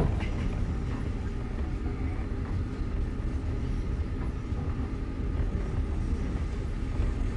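Passenger train running at speed, a steady low rumble heard from inside the carriage.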